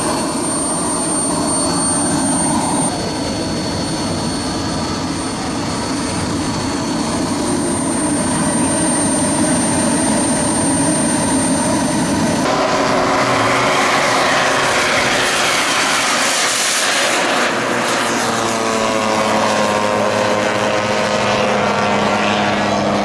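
Engines of giant-scale radio-controlled model aircraft in flight, a steady drone that shifts abruptly about 3 and 12 seconds in. In the second half a model passes, its engine pitch sliding down as it goes by.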